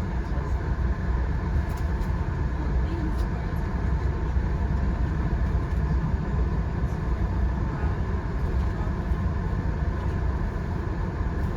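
Steady low rumble of a moving Via Rail passenger train, heard from inside the coach: wheels running on the rails and the car body noise, with no clicks or changes.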